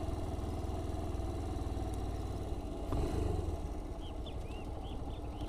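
Yamaha Factor 125's single-cylinder four-stroke engine running at low speed as the motorcycle rolls slowly along a dirt road, a steady low pulsing rumble. From about four seconds in, a bird chirps in a quick high series over it.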